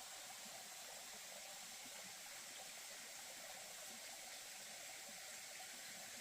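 Faint, steady rush of running water from a small stream.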